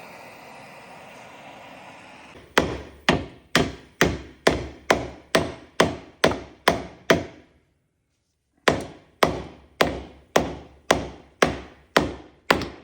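A steady hiss, then a hammer striking hard and evenly, about two blows a second: a run of around eleven blows, a short pause, then about ten more. The hammering is driving out a heated rubber bushing on a BMW E36 subframe, which is not yet coming free.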